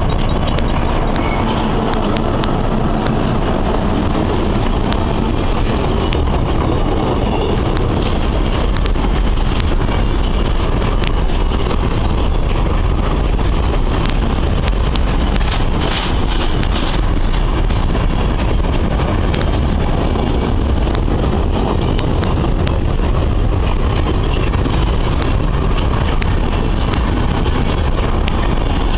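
Freight train of empty grain wagons behind ALCO RSD35 diesel locomotives rolling past, a steady loud rumble with frequent sharp clicks and clanks.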